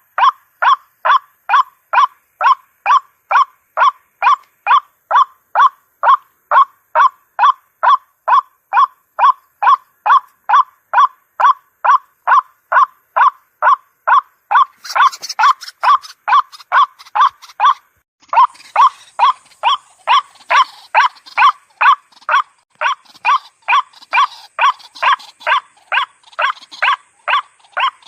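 White-breasted waterhen (ruak-ruak) lure call: a loud note repeated about twice a second, on and on. About halfway the calls turn rough for a few seconds, break off briefly, then resume with a faint hiss behind them.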